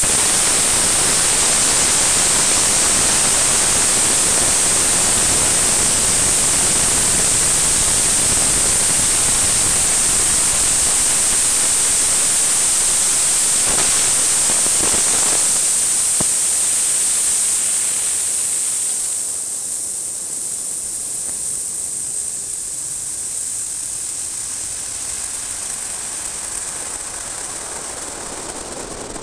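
Polyethylene/nitrous-oxide hybrid rocket motor firing on a static test stand: a loud, steady rushing roar with a hissing top that starts abruptly at ignition. About 19 seconds in it drops to a weaker, rougher rush that tapers off, as the partly filled nitrous tank runs down.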